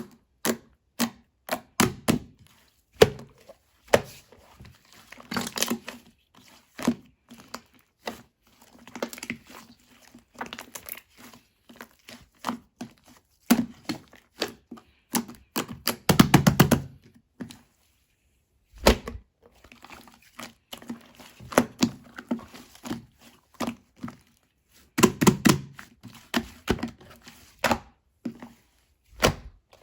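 Slime being pressed and squeezed by hand: irregular clicks, pops and crackles, with a few denser, louder bursts of squishing, the longest about sixteen seconds in.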